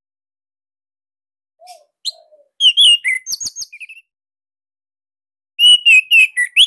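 Orange-headed thrush (anis merah) singing: two bursts of quick, high, varied chirps and whistles, the first about two and a half seconds in and the second near the end, with a pause between.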